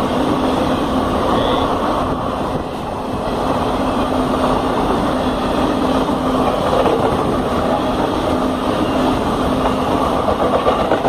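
Blue Indian Railways passenger coaches running past at speed: a steady rumble and rattle of wheels on the rails, with one low steady tone running through it.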